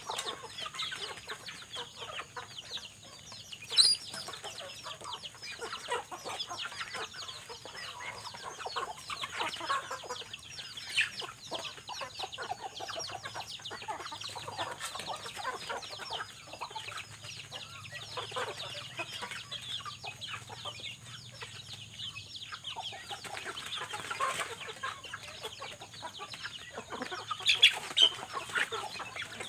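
Chickens clucking, with irregular chirps and ticks and two sharper, louder calls about four seconds in and near the end.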